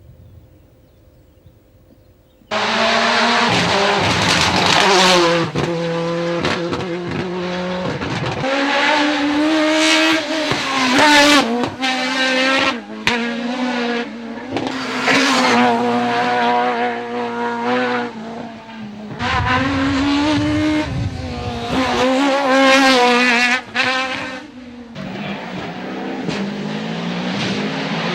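Rally car engine at full throttle, starting suddenly about two and a half seconds in and revving up and down again and again through gear changes, with brief drops on the lift around the middle and near the end.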